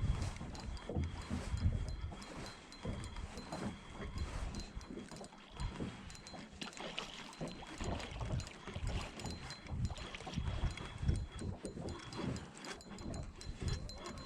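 Wind buffeting the microphone in irregular low gusts and thumps aboard a small fishing boat, with water lapping against the hull and a faint steady high-pitched tone underneath.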